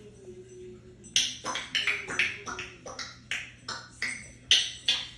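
African grey parrot making a quick run of sharp clicks or pops, about three a second, starting about a second in.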